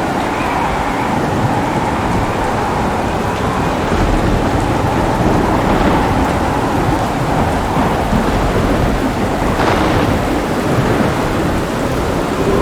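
Heavy rain falling steadily, with thunder rumbling low underneath and swelling slightly partway through.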